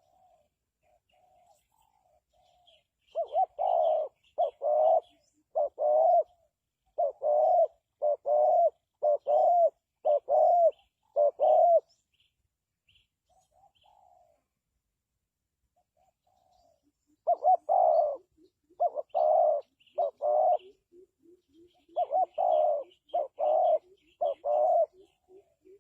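Spotted dove cooing: repeated phrases of loud, husky coos in two long bouts separated by a pause of several seconds, with fainter coos in between.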